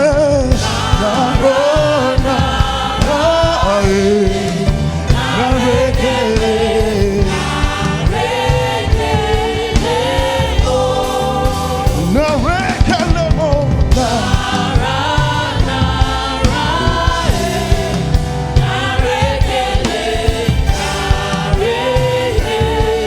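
Gospel choir singing praise music over a steady beat.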